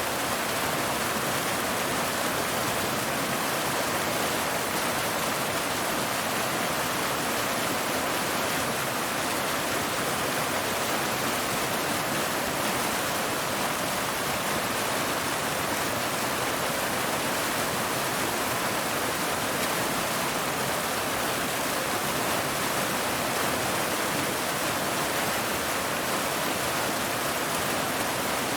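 Waterfall water falling and splashing over rocks in a steady, unbroken rush.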